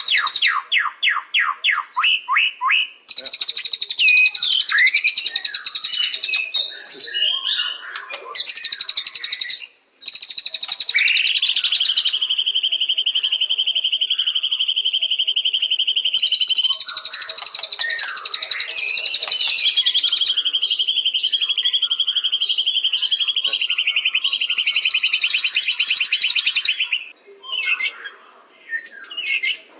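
White-rumped shama (murai batu) singing a varied song: a quick series of repeated sweeping notes at first, then long even trills and harsh buzzy phrases that recur every few seconds, with short whistles between them.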